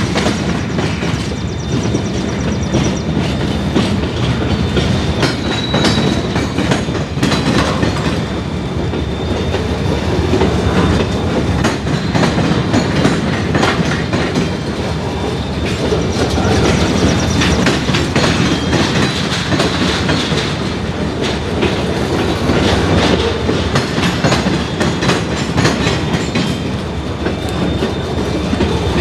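Freight cars rolling past at low speed while being shoved, steel wheels clicking and clunking over rail joints and a diamond crossing, with a faint high wheel squeal now and then.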